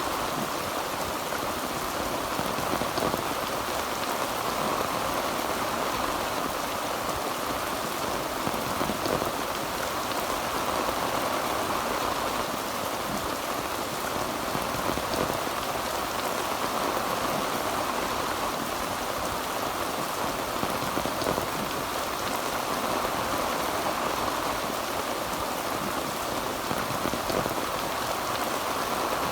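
Heavy rain drumming steadily on a tin roof, a dense even patter with no thunder.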